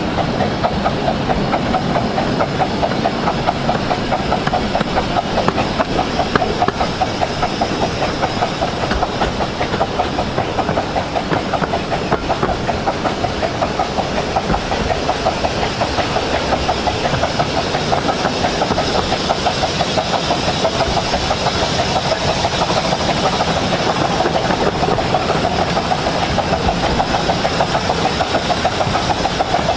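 Miniature steam train of the 15-inch-gauge Romney Hythe & Dymchurch Railway, hauled by the 4-8-2 steam locomotive No.5 Hercules, running at a steady speed with a fast, even beat and a hiss.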